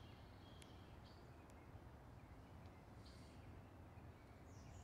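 Near silence in leafless woodland, with a few faint, short, high bird chirps.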